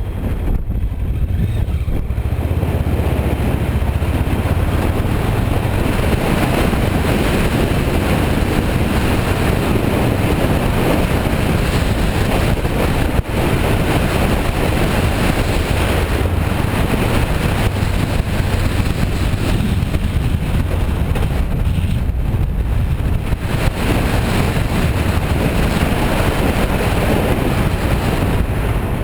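Heavy wind buffeting on the microphone of a moving motorcycle, a 2008 Kawasaki Versys 650, with its parallel-twin engine running underneath. The noise is loud and steady throughout.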